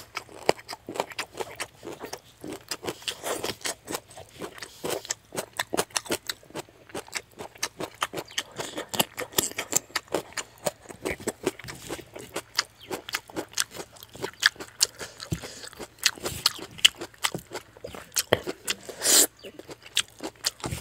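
Close-miked mouth sounds of a person eating fish-head curry with rice by hand: a steady run of irregular chewing clicks and lip smacks, with one louder burst near the end.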